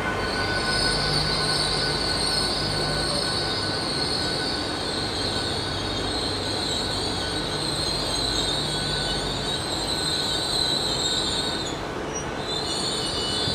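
Great Western Railway Intercity Express Train pulling out of the station, its wheels giving a steady high-pitched squeal over the low rumble of the train. The squeal drops out briefly near the end, then returns.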